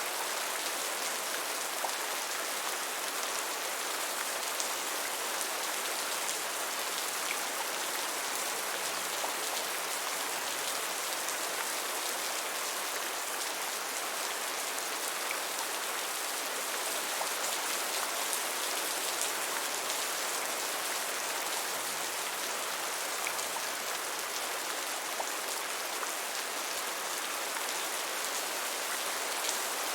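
Gentle rain falling steadily: an even hiss of rainfall with scattered faint drop ticks.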